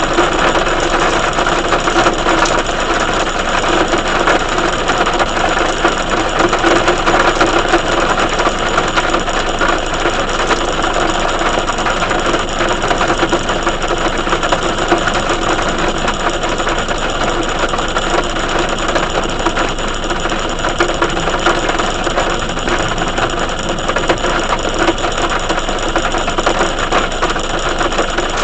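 Heavy rain falling steadily: a loud, even, dense patter that stays the same throughout.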